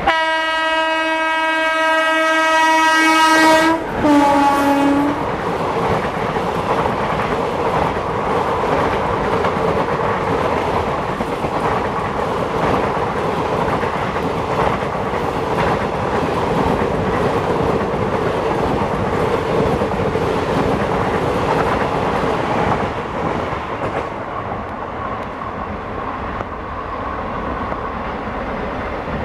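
Locomotive horn sounding one long blast of nearly four seconds, then a short, lower note as the speeding express train passes. The coaches then rush by with wheels clattering over the rail joints, fading away in the last few seconds.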